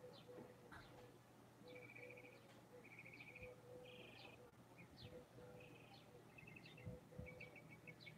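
Faint birds chirping: repeated short rapid trills and quick downward-sliding whistles, over a low steady hum.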